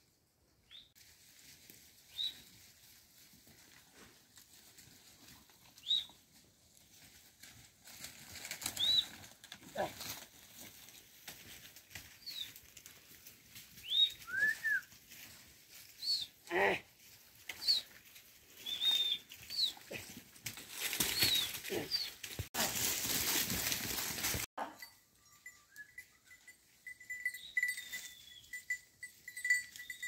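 Small birds chirping: short, high calls every second or two, one of them a lower falling note. A rush of noise lasts about two seconds near the end.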